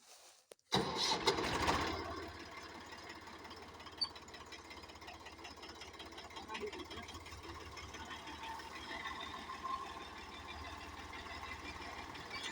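Tractor engine starting about a second in, loudest for the first second or so, then settling into a steady run with a fast low chugging pulse.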